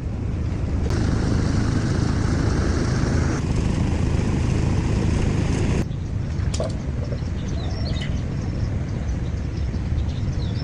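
Tractor engine running with a heavy, steady low rumble that changes abruptly a few times; short bird-like chirps in the second half.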